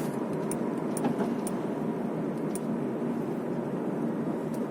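Steady road and engine noise of a Smart car driving, heard inside its cabin, with a few faint short clicks.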